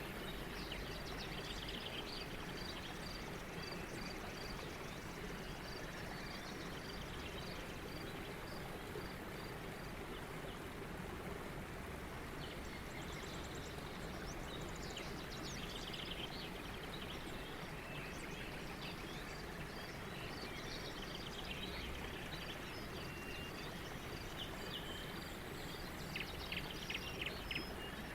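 Wild birds chirping over a steady background hiss, one bird repeating a short high note about one and a half times a second, with a quick run of chirps near the end.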